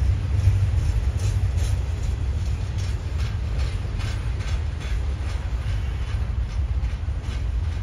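Norfolk Southern double-stack intermodal container train passing, a steady low rumble with a run of sharp wheel clicks on the rails.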